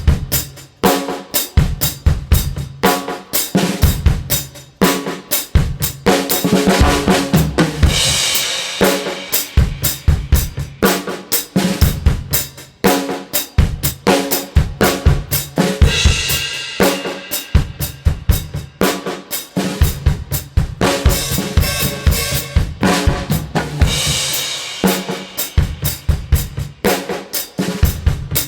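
Drum kit playing a steady groove of bass drum and snare, with cymbal crashes washing in about every eight seconds.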